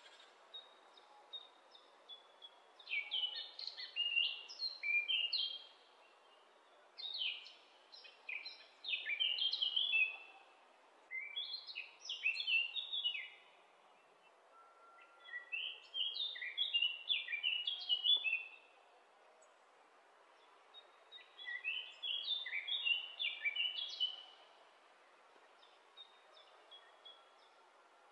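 A songbird singing five phrases of rapid, jumbled high chirps, each lasting two to three seconds with pauses between, over a steady background hiss.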